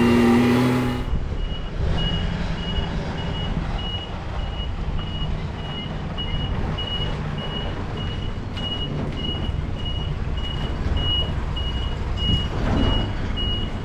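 A truck's reversing alarm beeping at an even rate, about twice a second, over its diesel engine running low as it backs in. For about the first second, a louder steady engine drone plays, then cuts off abruptly.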